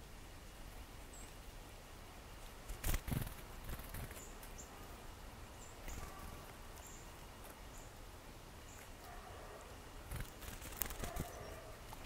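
Outdoor ambience in snowy woods with faint, short, high bird chirps now and then. A sharp knock about three seconds in, and a cluster of knocks and rustles near the end.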